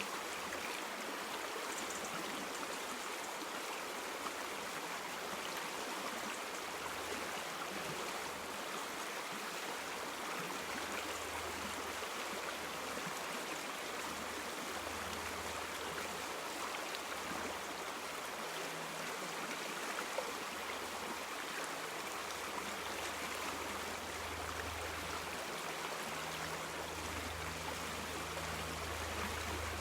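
River water flowing and rushing steadily, with a low hum that swells and fades beneath it, strongest near the end.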